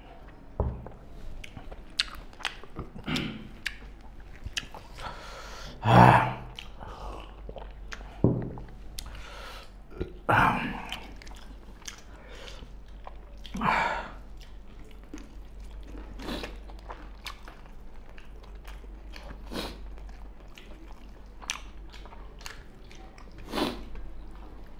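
Close-up eating sounds of two people chewing mouthfuls of pork curry and rice, with irregular louder mouth and hand noises every few seconds, the loudest about six seconds in.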